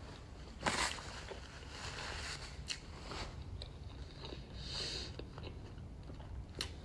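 A person chewing a mouthful of fast food, with soft mouth clicks and one sharper smack just under a second in.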